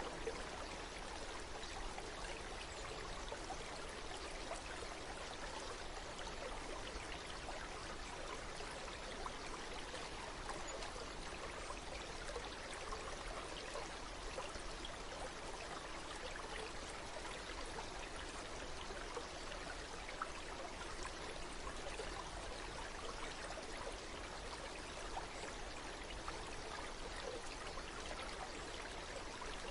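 Running water in a stream, babbling steadily and evenly without a break.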